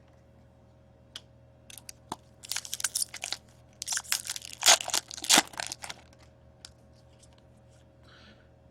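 A foil trading-card pack wrapper being torn open and crinkled in the hands, a run of sharp crackling strokes that grows loudest about five seconds in and then stops.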